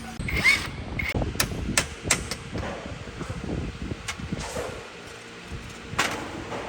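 Hand-tool work on metal parts: a string of sharp knocks and clicks with scraping in between, the loudest hits in the first two seconds and another about six seconds in.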